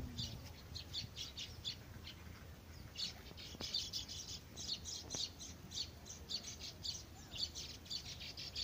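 Birds chirping in quick runs of short, high calls, which grow denser from about three seconds in.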